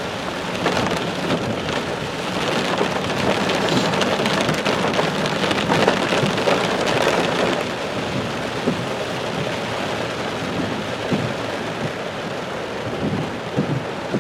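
Steady heavy rain on a car driving through the storm, a dense hiss that is heaviest in the first half, with a faint steady hum underneath.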